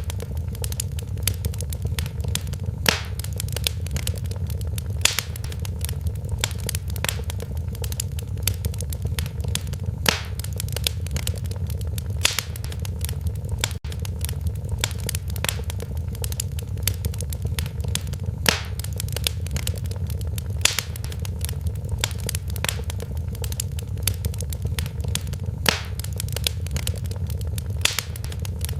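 Wood fire in a fireplace crackling: dense small snaps and a sharper, louder pop every few seconds over a steady low rumble of the flames.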